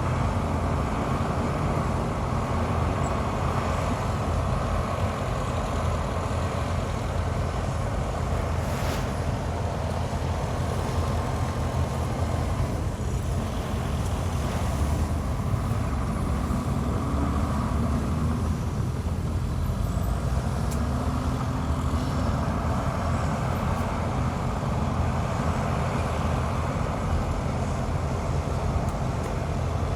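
Heavy diesel earthmoving machinery running steadily under load, with a deep, even engine rumble. There is a brief sharp sound about nine seconds in.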